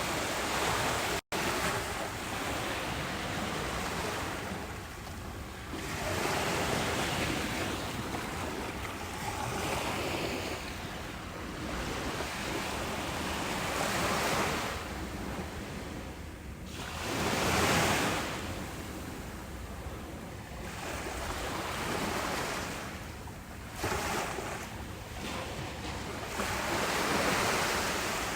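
Ocean surf on a beach: waves breaking and washing in, the rush swelling and fading every few seconds. A split-second dropout to silence comes about a second in.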